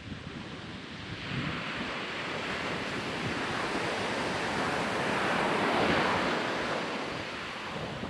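Ocean surf on a beach: a wave that builds from about a second in, is loudest a little past the middle, then eases off. Wind buffets the microphone throughout.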